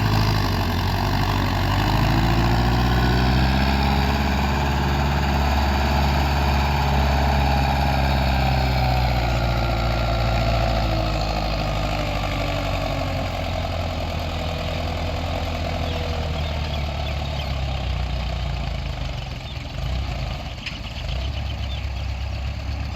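Belarus tractor's diesel engine running steadily. Its revs climb in the first few seconds, hold, and then ease back down after about ten seconds.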